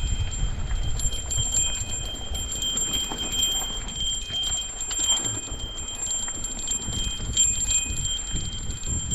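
Mountain bike rolling over rough trail: a low rumble with scattered clicks and rattles, under a steady high ringing tone.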